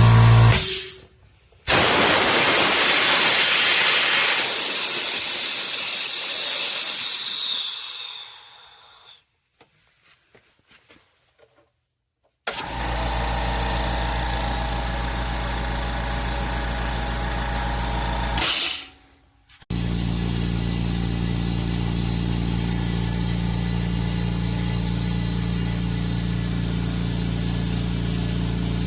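Oil-less electric air compressor: the motor runs and cuts off, then compressed air is let out with a loud hiss that fades away as the pressure drops. After a few quiet seconds with small clicks, the motor starts again and runs steadily, stopping briefly once with a short burst before running on.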